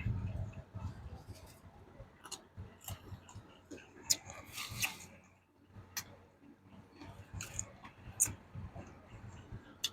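A person eating close to the microphone: chewing and crunching food, with scattered sharp clicks and a short crackly burst about four to five seconds in.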